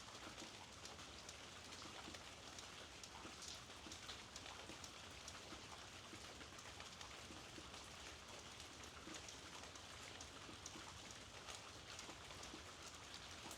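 Faint, steady rainfall: an even hiss of falling rain dotted with many small, sharp ticks of individual drops landing.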